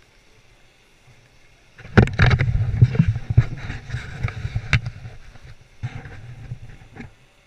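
Dirt-bike engine close by, revving in uneven bursts with sharp knocks. It starts abruptly about two seconds in, fades over the next few seconds, and picks up briefly again before dropping away near the end.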